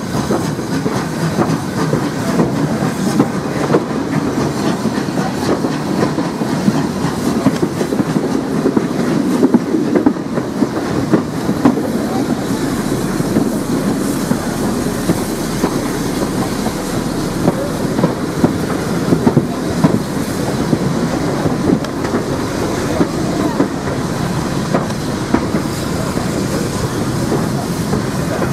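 Steam-hauled heritage train running along the line: a steady rumble from the carriage wheels on the rails, with frequent clicks over the rail joints.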